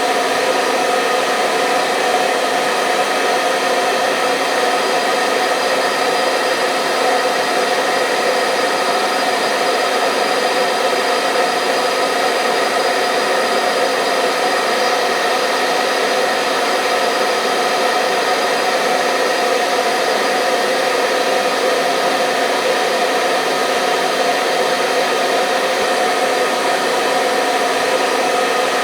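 Hair dryer running steadily on one setting: a constant rush of air with a motor hum, unchanging throughout.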